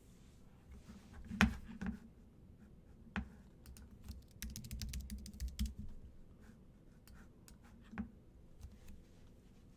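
Scattered light clicks and taps, the loudest about a second and a half in, with a quick run of clicks around the middle.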